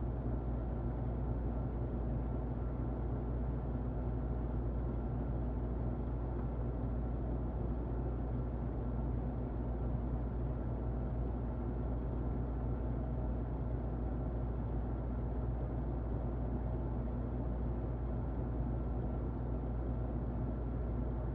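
Muffled electric fan running steadily: an even, low rushing noise with a faint steady whine, unchanging throughout.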